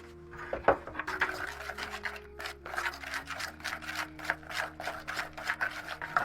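Repeated rubbing or scraping strokes, about three a second, over soft background music.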